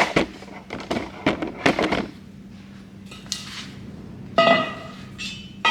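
Steel parts of a welding cart being handled and set in place, knocking and clanking together: a quick run of sharp knocks in the first two seconds, then a ringing metal clang about four and a half seconds in and another sharp clank near the end. A faint steady hum runs underneath.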